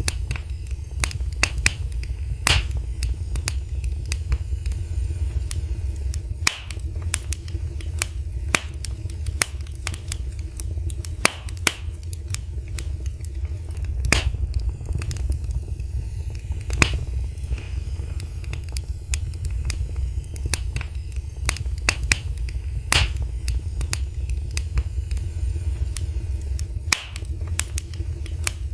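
Fire burning in a fireplace, crackling with irregular sharp pops, some louder than others, over a steady low rumble.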